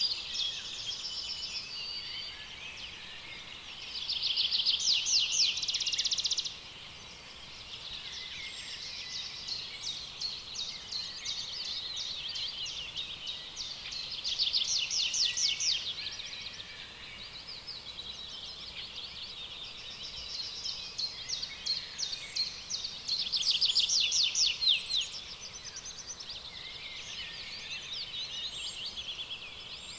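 Rainforest chorus of chirping and trilling birds. Three times, a louder rapid trill stands out for about two seconds.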